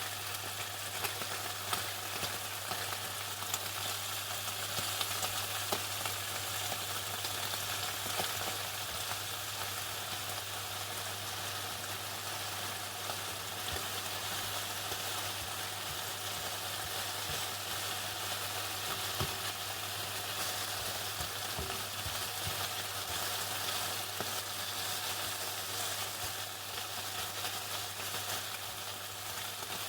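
Chicken frying in hot oil: a steady, dense sizzle of many small crackling pops, with a low steady hum underneath.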